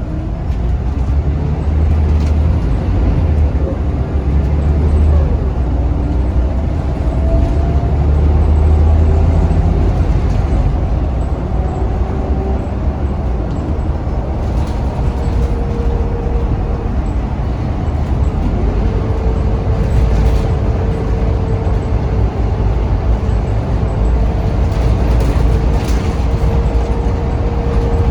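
Scania DC9 9-litre six-cylinder turbo diesel bus engine running with a deep rumble, rising in pitch several times in the first ten seconds as the bus accelerates. A steady whine from the driveline joins from about halfway through.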